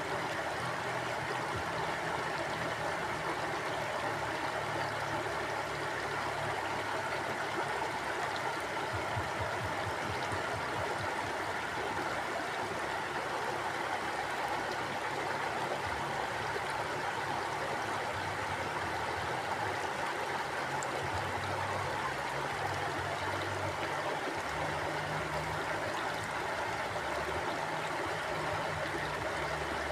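A stream of flowing water running and gurgling steadily over rocks.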